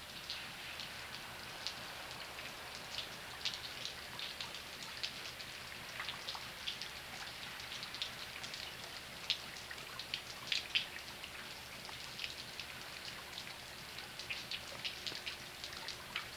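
Light rain falling, with scattered drops ticking close by at irregular intervals over a faint steady hiss.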